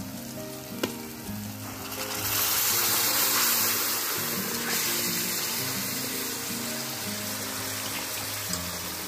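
Cooked mutton and its broth poured into hot oil and fried masala paste in a kadhai, setting off a loud sizzle about two seconds in that slowly settles to a steadier sizzle.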